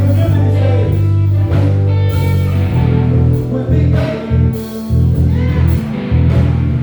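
Live band music: electric bass, drums and keys with a melodic lead line on top, the bass notes loudest.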